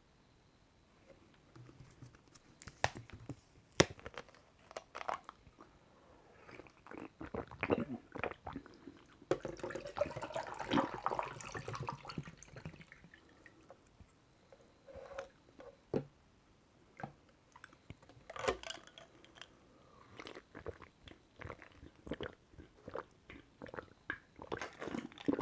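Close-miked drinking of bottled Fiji water: irregular gulps and swallows, with sharp clicks and crackles from the plastic bottle and its cap, and a thicker run of sound in the middle.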